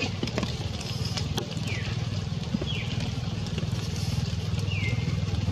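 A steady low mechanical hum like a running motor, with four short high chirps scattered through it, each falling in pitch.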